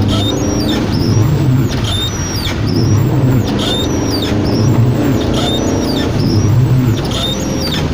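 Car running in heavy rain, with a high squeak repeating roughly once a second over a steady low engine hum.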